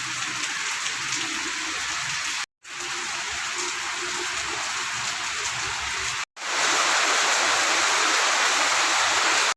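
Steady rain falling: a continuous hiss made of three stretches spliced together, with two brief silent gaps between them. The last stretch, from about six seconds in, is louder.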